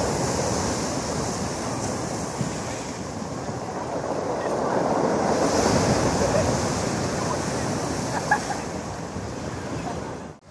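Storm surf breaking and washing on a stony beach, with wind buffeting the microphone. The noise swells and eases, and a sharp knock comes about eight seconds in. The sound cuts out abruptly right at the end.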